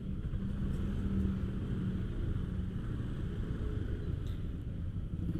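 Motorcycle engine running steadily while riding, heard with a low rumble of road and wind noise.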